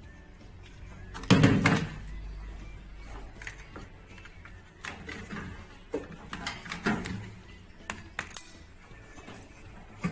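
Irregular knocks and clatter of tools and hard parts being handled, with one loud knock and thump about a second and a half in, then several lighter clacks.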